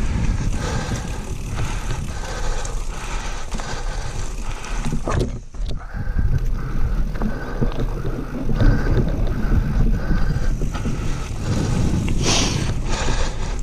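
Whyte 901 mountain bike being ridden over a dirt forest trail: tyres rumbling over the ground with frequent knocks and rattles from the bike, briefly dropping away about five seconds in.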